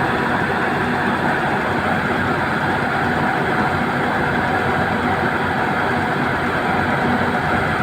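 Backhoe loader's diesel engine running steadily at an even, constant speed.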